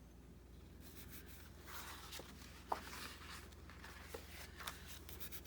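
Faint rustling of paper being handled and positioned, with a few soft taps and ticks.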